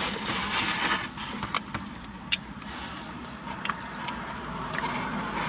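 Chewing and mouth sounds of people eating pizza, with scattered small clicks and crackles, over a low steady hum inside a car's cabin.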